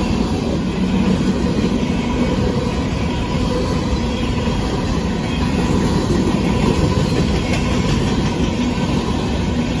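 Covered hopper cars of a freight grain train rolling past at speed, a steady rumble and clatter of steel wheels on the rails.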